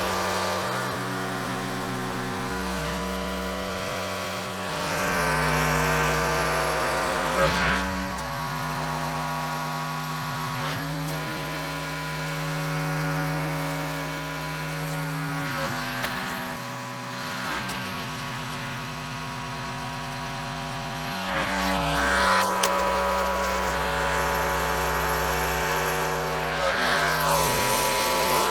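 Engine-driven pressure washer running steadily, its engine note shifting in pitch several times as the spray is triggered and released. The water spray hisses louder about five seconds in and again from about twenty-two seconds.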